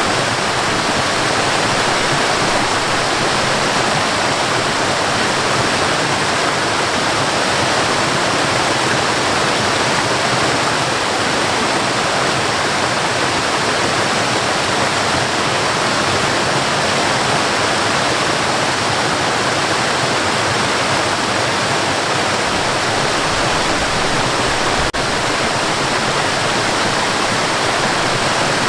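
Waterfall: a steady rush of falling water, with a single faint click near the end.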